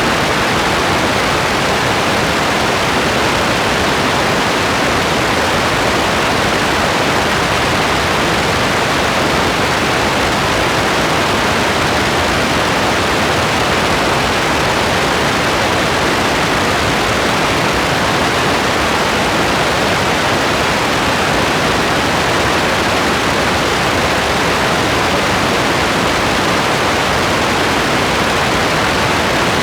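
Rain falling steadily: an even, unchanging hiss with no single drops, thunder or other sounds standing out.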